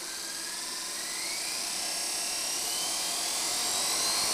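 Electric motorcycle conversion's drive motor spinning with no wheel or load fitted. It makes a whine that rises steadily in pitch and grows louder as the throttle is eased open.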